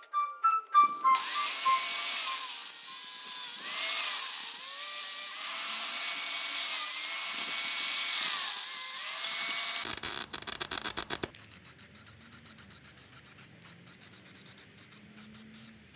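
A power tool running for about nine seconds, its pitch rising and falling, then a quick rattle of clicks about ten seconds in.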